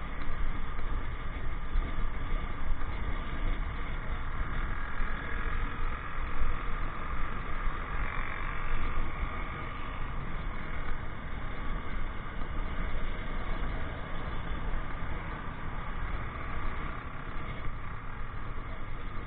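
Ride-along sound from a moving motorcycle: wind buffeting the microphone as a steady low rumble, with the motorcycle's engine and passing traffic mixed in.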